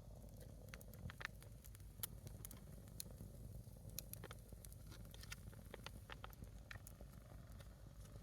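A small wood fire of a single log burning, giving faint, scattered crackles and pops, a few a second, over a low steady rumble.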